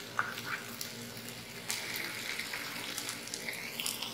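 Onions, curry leaves and freshly added ground coconut paste frying in hot coconut oil: a steady sizzle with scattered crackles and pops.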